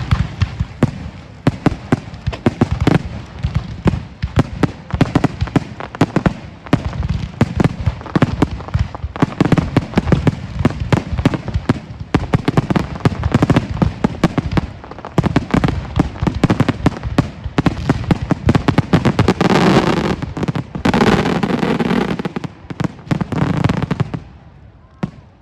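Fireworks display: a dense, continuous barrage of rapid bangs and crackles, building to a heavier burst of booms about twenty seconds in before dying away near the end.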